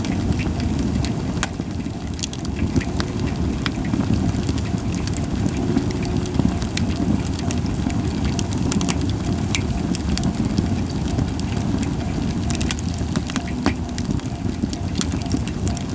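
Japanese white pine campfire crackling, with frequent irregular sharp pops over a steady low rumble. There is little hissing from the wood.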